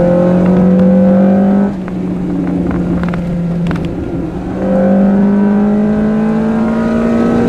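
Car engine heard from inside the cabin, pulling under throttle with its pitch slowly rising. About two seconds in the driver lifts off and it goes quieter for a few seconds. It then pulls again, rising in pitch, over steady road and tyre noise.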